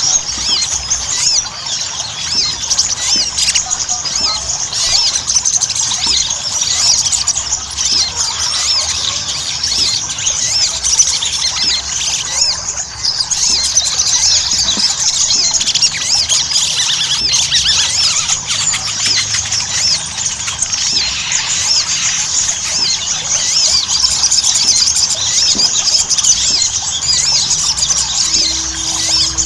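Crimson sunbird (sogon) singing at full pitch: a fast, unbroken stream of short, high, sweeping chirps and trills, easing briefly about twelve seconds in. This is the vigorous 'gacor' song that keepers play as a lure to get a captive sogon to sing.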